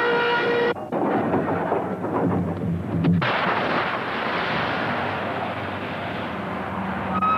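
A locomotive horn sounding a chord cuts off about a second in. The rumble of a moving train follows and turns into a louder, steady rushing noise about three seconds in.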